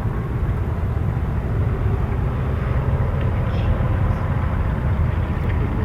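Cars driving past, a steady low engine and exhaust rumble.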